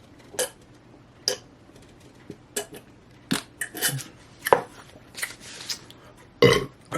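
Close-miked eating sounds: irregular wet smacks and crunchy clicks of a fried fish sandwich being chewed, with a heavier one near the end.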